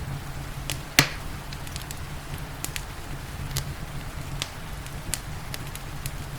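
Wood fire crackling with scattered sharp pops, one loud pop about a second in, over a steady low rumble and an even hiss of rain.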